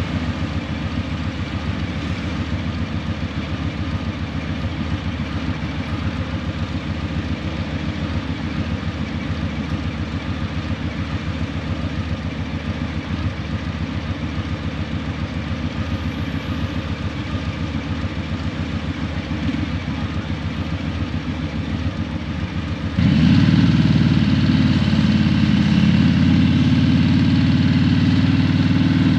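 Harley-Davidson Breakout 117's Milwaukee-Eight 117 V-twin running steadily through a Vance & Hines Eliminator 300 slip-on exhaust, with a low, even pulsing beat. Near the end it suddenly gets louder and holds at the higher level.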